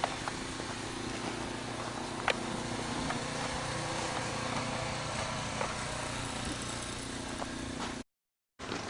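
Steady engine and road hum inside a moving car's cabin. The sound cuts out completely for about half a second near the end.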